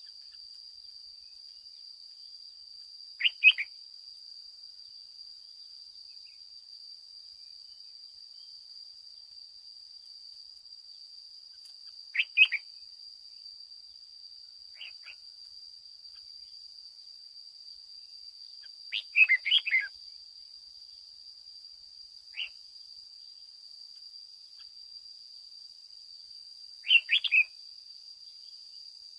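Red-whiskered bulbul singing short, bright chirpy phrases every few seconds, about six in all, the longest a burst of several notes around the middle. A steady high-pitched hum runs underneath.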